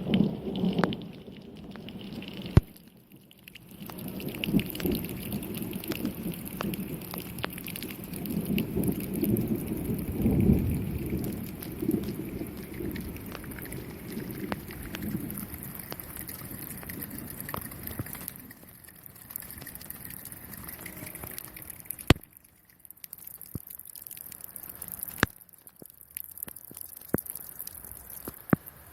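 Rain falling in a thunderstorm, with a steady hiss and scattered heavy drops landing close to the microphone as sharp taps. A low rumble of thunder runs through the first half and dies away.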